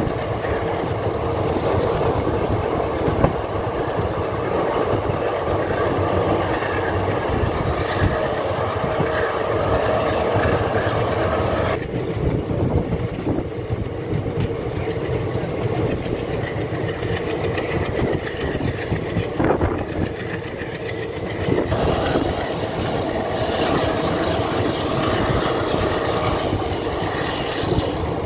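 Passenger train running at speed, heard from an open coach doorway: a steady rumble and clatter of the coach wheels on the rails. The higher hiss drops away about twelve seconds in and comes back about ten seconds later.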